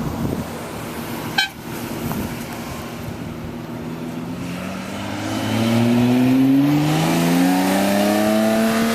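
A car engine picks up revs about halfway through, its pitch rising slowly and then holding steady. There is a sharp click about a second and a half in.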